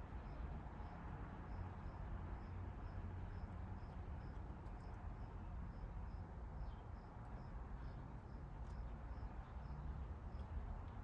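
A cricket chirping steadily, about two short chirps a second, over a low steady hum, with a few faint clicks.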